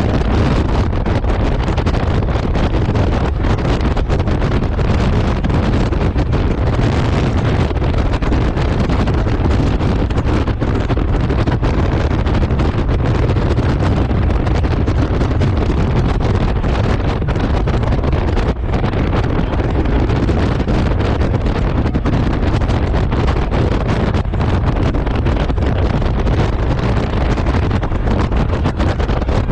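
Wind buffeting the microphone on a moving Honda Gold Wing motorcycle: a loud, steady low rush with the motorcycle's road noise mixed in.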